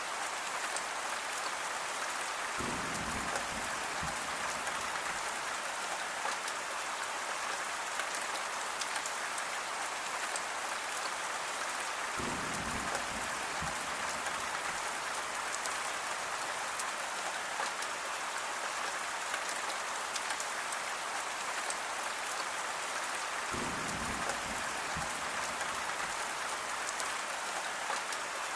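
Steady rain falling, a dense even hiss sprinkled with the ticks of individual drops. A short deeper patch of sound comes three times, about ten seconds apart.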